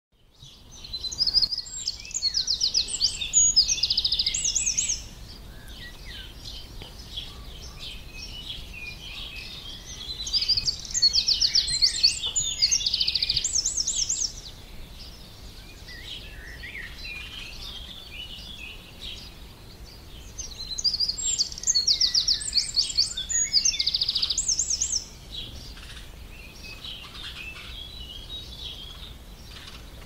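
A songbird sings three bouts of song, each about four seconds long and about ten seconds apart, made of quick, repeated high notes and trills. Fainter bird calls fill the gaps.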